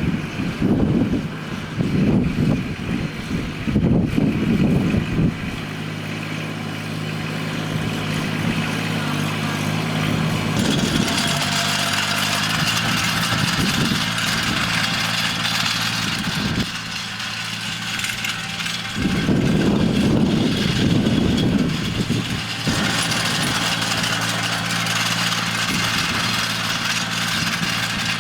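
An engine running steadily with a low, even hum. Gusts of wind buffet the microphone near the start and again about two-thirds of the way through.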